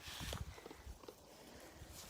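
Quiet outdoor background with a few faint low thumps in the first half second, then little else.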